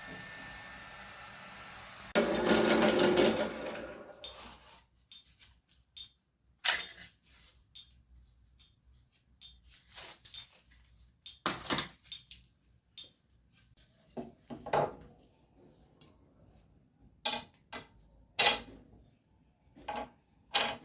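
Workshop handling sounds: a steady machine hum ends with a loud burst about two seconds in, followed by scattered clinks and taps of small hard tools or parts being picked up and set down.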